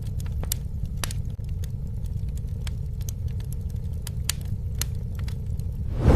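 Campfire burning: a steady low rumble of flames with frequent, irregular sharp crackles and pops, and a louder burst right at the end.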